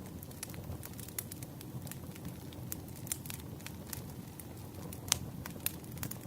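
Campfire burning, wood crackling and popping irregularly over a low steady roar of flames, with two sharper pops about five seconds in and shortly after.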